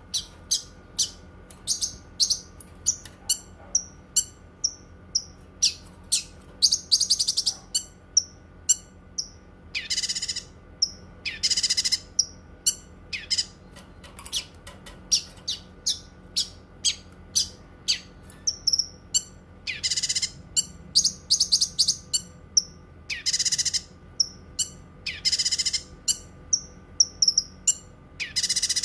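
Cucak kinoi songbird singing: a quick run of short, high, sharp chirps about two a second, broken by several longer harsh, rattling bursts.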